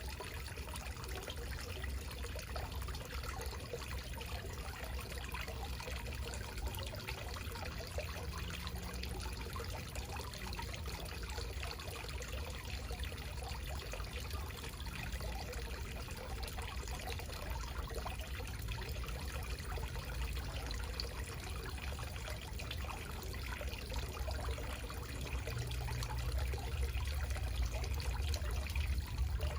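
Backyard garden waterfall: water spilling and splashing steadily over rocks into a pond, with a steady low rumble.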